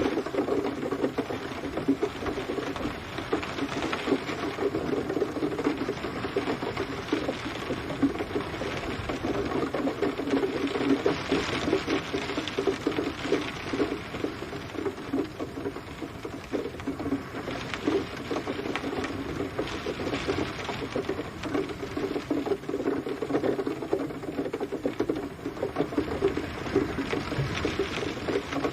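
Steady rain pattering on a surface: a dense, unbroken run of small drop ticks.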